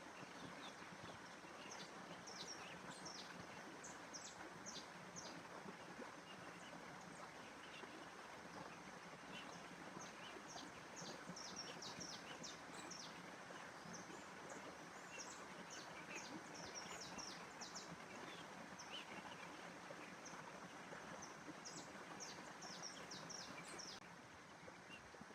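Outdoor nature ambience: a faint, steady rushing noise with small birds chirping in short, high bursts of calls that come and go. The background drops a little near the end.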